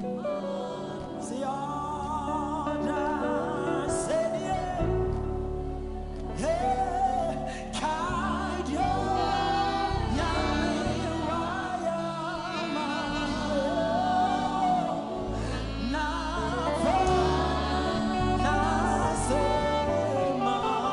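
Gospel worship song: voices singing with a wavering, held melody over instrumental accompaniment with sustained low notes.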